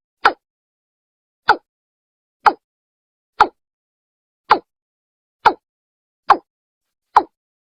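Watercock (Gallicrex cinerea) calling: a series of eight short, hollow 'toom' notes, about one a second. It is a recorded call of the kind played to lure watercocks.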